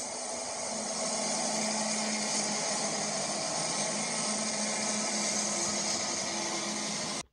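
Canadian National EMD SD70M-2 diesel locomotives passing close by: a loud, steady rush of engine and wheel noise with a faint low hum, running into the first freight cars. It cuts off suddenly near the end.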